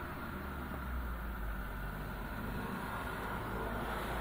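Police car engines idling with a low, steady rumble.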